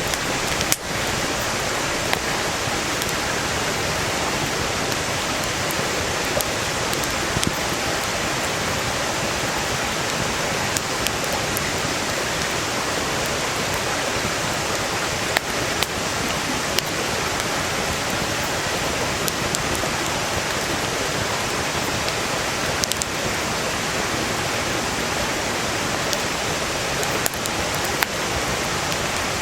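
Valley stream rushing steadily, with a wood campfire crackling over it: sharp pops from the burning firewood every few seconds.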